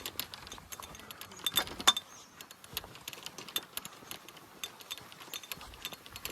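Golf clubs clinking and rattling against each other in a bag on a pulled golf buggy: irregular light metallic clicks, with a louder cluster about a second and a half in.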